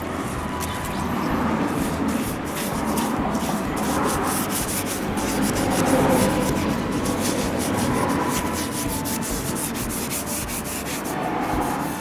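A paintbrush scrubbing wood preservative paint onto a wooden frame: continuous scratchy bristle-on-wood rubbing that swells and fades with the strokes, roughly every two seconds.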